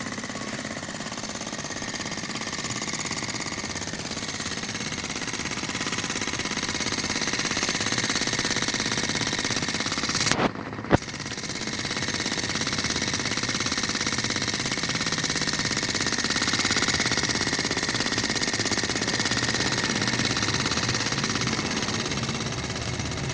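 Steam engine running at high speed: a rapid, steady mechanical clatter, with a single sharp knock and a brief dip about ten seconds in.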